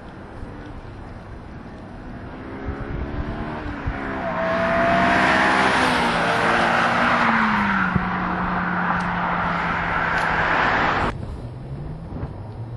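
Honda S2000's four-cylinder engine and exhaust under throttle: the engine note climbs over the first few seconds, then holds loud and steady at high revs. It cuts off abruptly about eleven seconds in, and a lower note begins rising again near the end.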